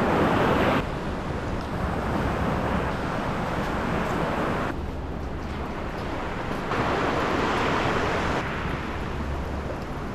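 Surf washing on the shore, with wind rumbling on the microphone; the wash swells and eases a few times.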